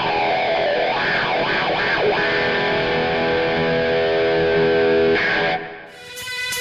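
Heavily distorted electric guitar music with long held notes. About five and a half seconds in it cuts off and a different guitar recording begins.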